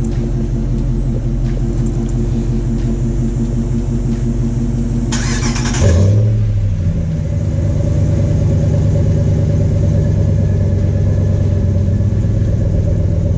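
A Hemi V8 idles steadily. About five seconds in, a second Hemi V8 cranks on its starter for under a second, fires with a brief flare of revs, and settles into idle alongside the first, so both engines run together.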